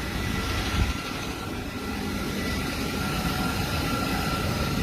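Electric multiple-unit passenger train running through the station: a steady rumble with a thin, steady high whine over it.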